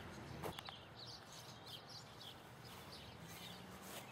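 Songbirds chirping faintly in short, repeated high calls, with a single knock about half a second in.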